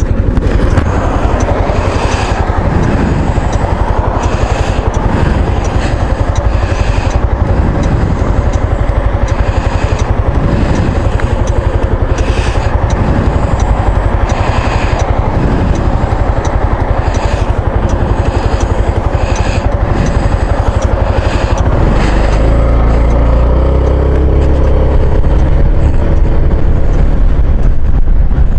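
Maxi-scooter riding on the road: loud steady engine and road rumble mixed with wind buffeting on the exposed camera, with short bursts of noise about every two seconds. Near the end a steadier engine note comes through more clearly.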